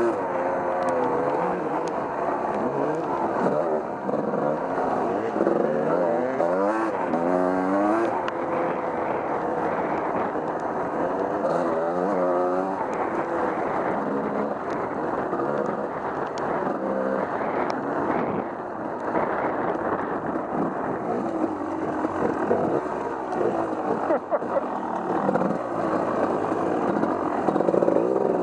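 Off-road vehicle engine running under way on a trail, its pitch rising and falling again and again as the throttle is worked, with a few sharp knocks and clicks.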